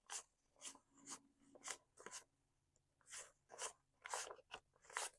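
Paper dollar bills being counted out one at a time: about ten soft, faint paper rustles, roughly two a second.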